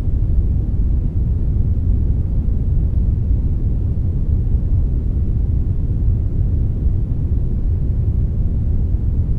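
Steady synthetic brownish noise, a blend of brown and white noise, a constant deep rushing hiss with most of its weight low down and no changes.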